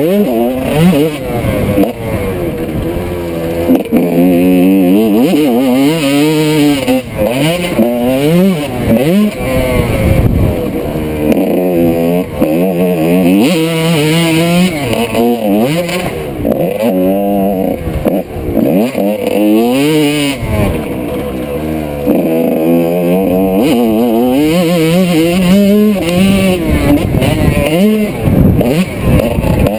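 1995 Honda CR125's two-stroke single-cylinder engine revving hard on a motocross track. The pitch climbs and drops back over and over, every second or two, as the bike accelerates, shifts and backs off.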